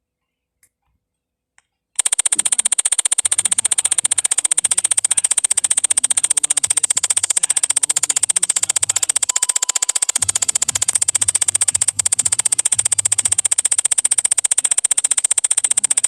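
About two seconds of near silence, then a loud, harsh buzz made of very rapid, even pulses with a strong high hiss, running without a break.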